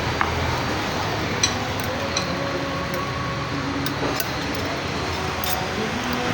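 Utensils and dishes clinking now and then while people eat, a few sharp clinks over a steady background noise.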